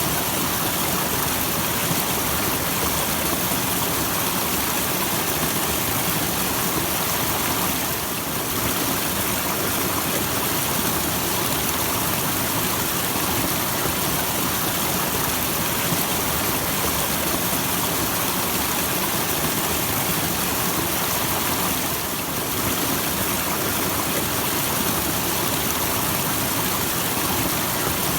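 Small waterfall: a steady rush of falling water, dipping slightly in level twice for a moment.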